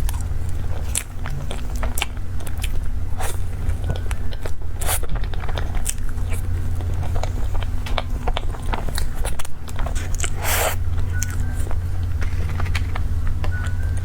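Close-miked eating of chocolate cake: chewing and biting with many small sharp mouth clicks, and one louder short crunchy burst a little past ten seconds. A steady low hum runs underneath.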